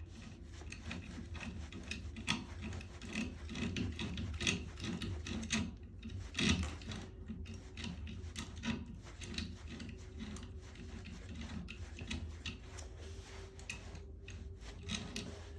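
Hand work with tools on metal parts: irregular scraping and rubbing strokes with scattered sharp clicks.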